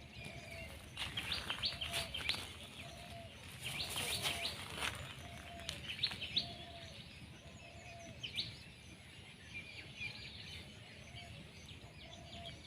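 Wild birds calling: scattered clusters of short, high, rapid chirps, with a lower short note repeating about once a second throughout.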